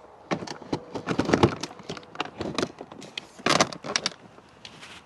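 A run of clicks, knocks and rattles as a packed bag is handled and fitted back onto a motorcycle, with the busiest handling about a second and a half in and again around three and a half seconds in.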